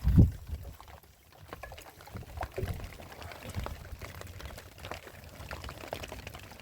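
Water being poured and splashing as dishes are washed by hand, with scattered light clinks and knocks and a dull thump about a quarter second in.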